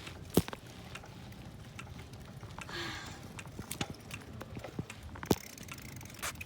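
Bicycle riding: a steady low rumble of tyres and wind with scattered clicks and rattles. Two sharp knocks, about half a second in and about five seconds in, are the loudest sounds.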